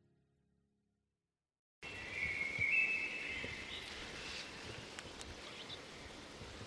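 Dead silence, then from about two seconds in an outdoor nature ambience sets in: a steady hiss with high, thin animal calls and a few faint ticks.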